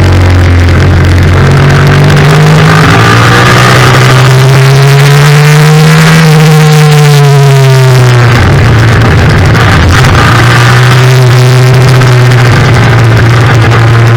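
Yamaha FZ-07 parallel-twin engine at racing revs, its pitch stepping and gliding up and down with the throttle and gear changes. The longest climb peaks about six seconds in and falls away by about eight seconds, then the engine pulls steadily again.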